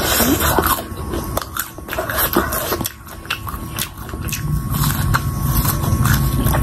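A person biting and chewing crispy fried pakora close to the microphone, with many small sharp crunches throughout.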